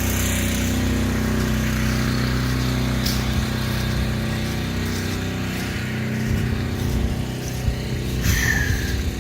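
An engine running steadily nearby, a low even hum, its low end growing rougher about two-thirds of the way through.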